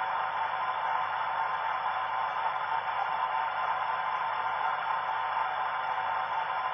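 Model railway locomotive sound played through the locomotive's small onboard speaker: a steady hissing drone with no bass and no beat.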